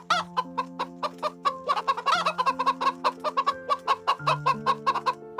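Chickens clucking in quick repeated notes, with a couple of longer, pitch-bending calls near the start and about two seconds in, over background music with held notes.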